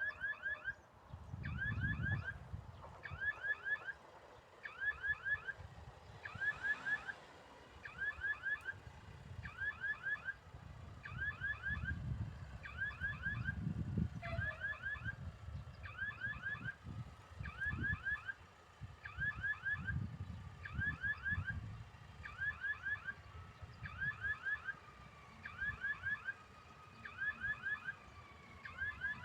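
Railroad crossing warning signal ringing in quick groups of about four strokes that repeat about once a second. Low rumbling swells come and go underneath, and in the second half a faint tone glides slowly downward.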